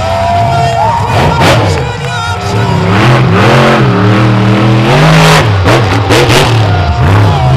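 Monster truck engine revving hard, its pitch rising and falling again and again, over loud arena music.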